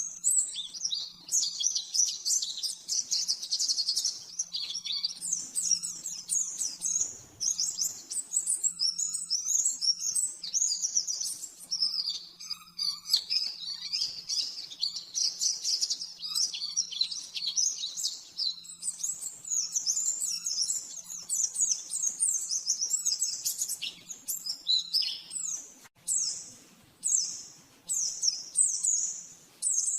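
White-eye (pleci) singing a fast, high-pitched chattering song in long, unbroken runs of rapid notes, breaking into short separate phrases about once a second near the end.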